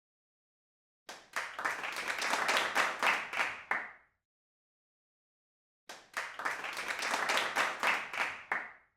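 Two bursts of clapping and applause, each about three seconds long, separated by dead silence; each starts and stops abruptly.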